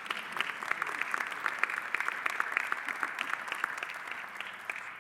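Audience applauding, many hands clapping, fading away near the end.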